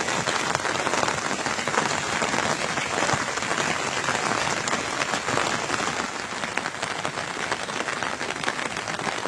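Rain falling steadily, a dense even spray of countless small drop impacts.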